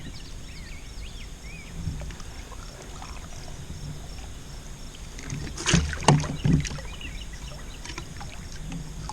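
Quiet open-water ambience around a kayak with faint bird chirps, then a short cluster of knocks and handling noises against the kayak about six seconds in, as a caught flathead catfish is handled for release.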